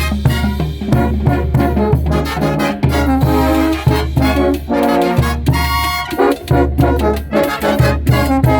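Brass band music: brass instruments playing a melody over a steady, pulsing bass beat.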